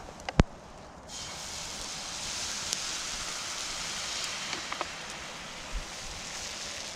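A sharp knock, then about a second in a steady hiss with scattered small crackles starts abruptly: the sound of cooking over a campfire.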